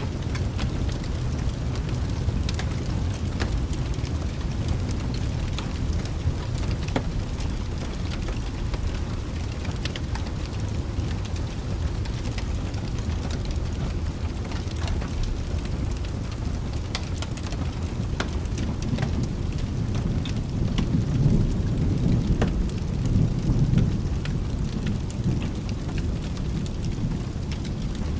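Steady heavy rain under a continuous low rumble of thunder that swells for a few seconds about three-quarters of the way through, with scattered sharp ticks of drops throughout.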